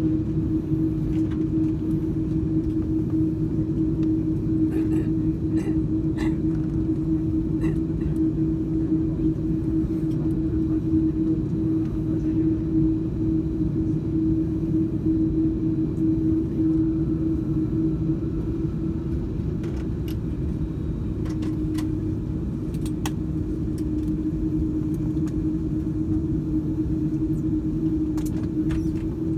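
Steady drone with a constant hum inside an Airbus A330-202 airliner's cabin after landing, with a few light clicks scattered through it.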